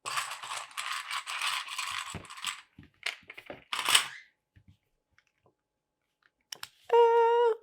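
Loose LEGO plastic pieces clattering and clicking as a hand rummages through a pile of them, then a few separate clicks. Near the end, a short, loud, steady pitched tone sounds for under a second.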